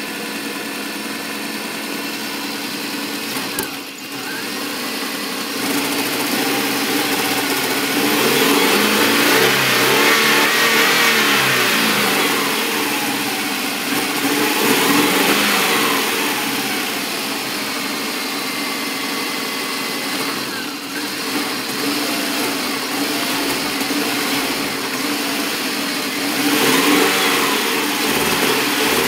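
1999 Subaru Outback's 2.5-litre flat-four engine idling and being revved several times, its pitch rising and falling, with a brief sag in the sound twice. This is typical of the engine bogging down when throttled at low RPM and almost stalling.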